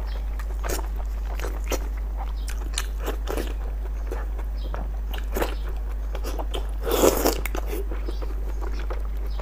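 Biting and chewing of sauce-coated large intestine (大肠): a string of short mouth and bite sounds, with a louder cluster about seven seconds in.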